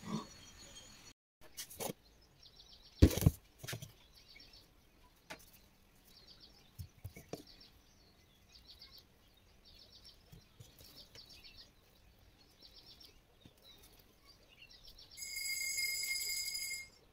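A small bird chirping over and over, about one short chirp a second. A single sharp knock comes about three seconds in, and near the end a steady high tone sounds for about a second and a half.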